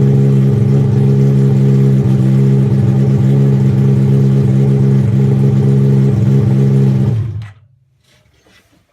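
Pro-motive R1 mini's small engine running at a steady idle, then shut off about seven seconds in, dying away within half a second, followed by a few faint ticks.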